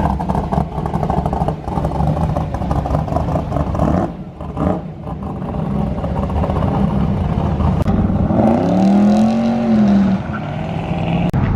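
Car engine running, with the pitch climbing and then dropping about eight to ten seconds in, the loudest moment.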